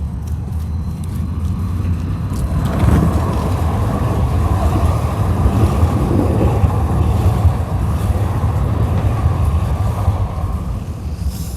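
Calgary CTrain light-rail train pulling into the station: a low rumble of wheels and motors that grows louder about three seconds in and eases off near the end.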